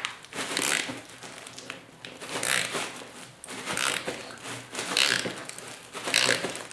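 Rhythmic scraping and grinding strokes, about one a second, as a hand tool works at a tight, rusted fastener on a motorcycle seat pan that will not come free.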